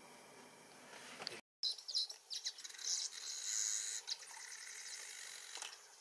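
Small birds chirping and twittering in rapid, high notes, starting right after a brief dead-silent gap about a second and a half in; before the gap there is only faint hiss.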